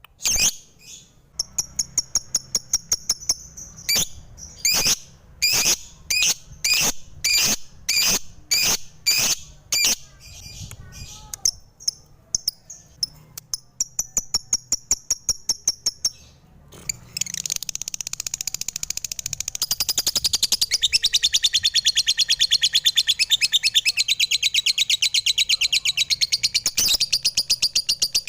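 Lovebirds calling: a run of sharp, high chirps, one or two a second, then after a short lull a fast, continuous chattering that grows louder.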